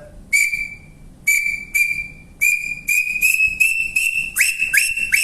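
Maurílio Coelho wooden bird call blown by mouth to imitate a brown tinamou: a long pure whistled note, then shorter notes that come faster and rise slightly in pitch. From about four seconds in, each quick note slides down at its end.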